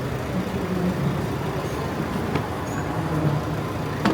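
Steady hum of road vehicle noise, with a single sharp click near the end.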